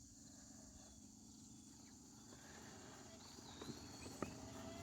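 Quiet outdoor background, then faint footsteps in the last second or so, with a faint short chirp just before them.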